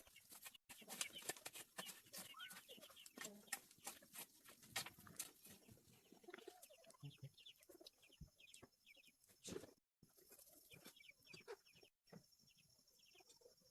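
Faint bird calls amid scattered clicks and knocks, with runs of short repeated calls from about six seconds in.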